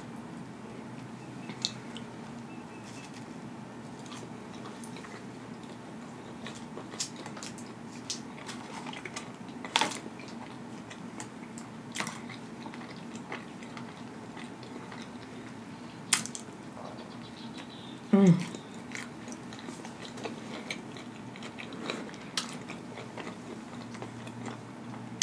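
Close-miked chewing of onion rings, with sparse sharp crunches and mouth clicks every few seconds. About two-thirds of the way through comes a short hum of the voice.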